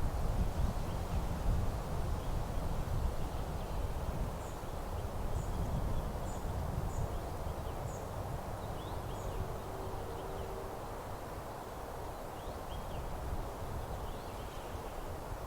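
Wind buffeting the microphone as a low rumble that slowly eases, with small birds chirping faintly in a meadow: a run of about six thin high notes in the middle, and scattered lower chirps.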